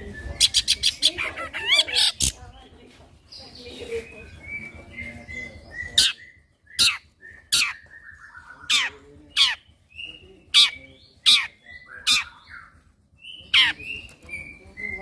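Long-tailed shrike (cendet) singing a rapid run of sharp notes and warbles at the start. From about halfway it gives harsh, sharp call notes repeated every half-second to second, with short falling whistles between them.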